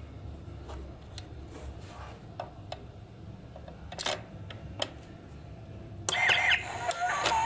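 Scattered small clicks over a low hum. About six seconds in, the toy coin bank's electronic sound chip starts playing, suddenly and louder, with gliding electronic tones.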